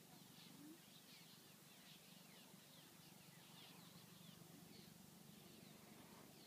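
Faint chirping of small birds: many short, falling chirps in quick succession over a quiet background.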